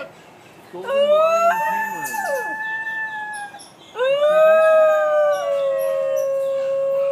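New Guinea singing dogs howling in long, tonal cries. The first howl starts about a second in and jumps suddenly up in pitch, with another voice gliding down across it; a second howl starts about four seconds in, rises, then holds steady.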